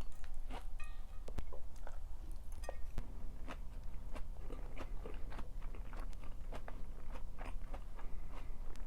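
Close-miked chewing and crunching of food, with many irregular crisp clicks from the mouth. There are brief ringing clinks of tableware about a second in and just before three seconds.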